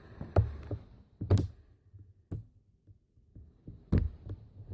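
Scattered handling taps and clicks, four sharper knocks among smaller ones, as fingers work at a rubber cricket-bat grip sleeve fitted over a motorcycle handlebar grip.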